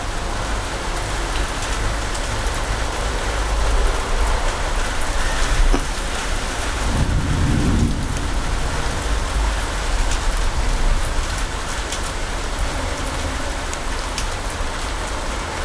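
Heavy rain of a thunderstorm falling with a dense, steady hiss, with thunder rumbling low underneath, swelling about seven seconds in.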